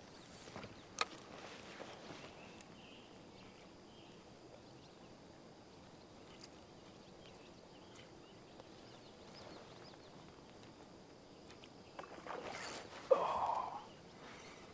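Quiet lake ambience with a faint steady high hum and a few small clicks. Near the end comes a sudden loud splash at the water's surface, a fish striking a topwater frog lure.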